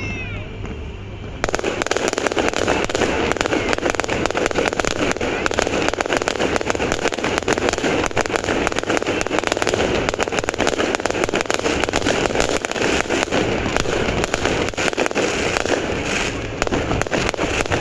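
Fireworks display: a couple of whistling glides, then from about a second and a half in a sudden, dense, continuous crackle of many small bursts that keeps going almost to the end.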